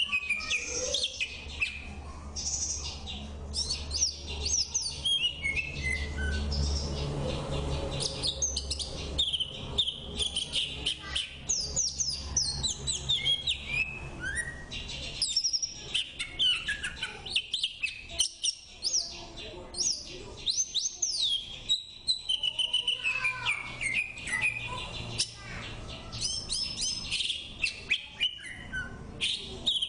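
Oriental magpie-robin (kacer) singing a continuous, varied song of quick high whistled notes and sweeps, over a low background hum.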